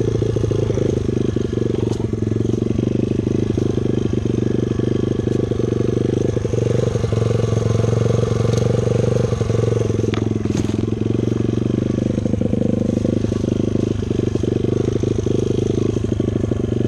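Dirt bike engine running at steady revs, its pitch dipping briefly and climbing back about twelve seconds in.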